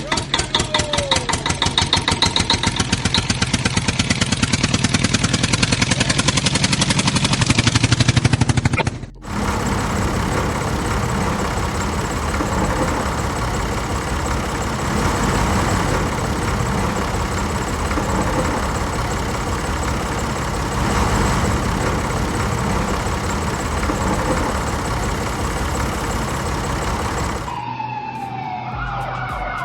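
Dubbed vehicle sound effects: an engine putting in quick, even pulses that speed up, cut off abruptly about nine seconds in by a steady loud rushing noise. Near the end a siren starts, its tone falling.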